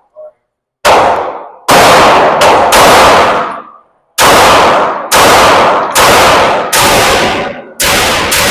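Pistol shots fired in an uneven string, about nine in eight seconds, each ringing out with a long echo off the walls of an indoor range.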